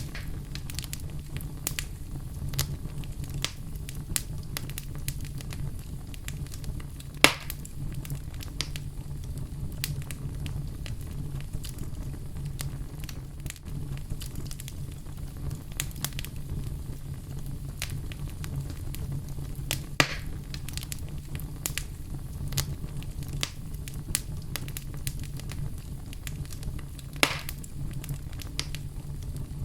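Wood fire burning in a fireplace: a steady low rumble with scattered crackles and sharp pops, the loudest about seven seconds in, with others near twenty and twenty-seven seconds.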